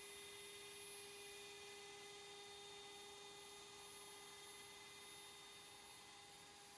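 Near silence: a faint steady electrical whine of a few thin, unchanging tones over a soft hiss.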